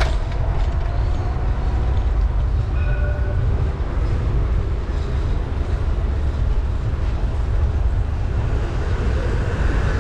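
Steady low rumble of wind and road noise from a moving bicycle ride, with faint street sounds over it.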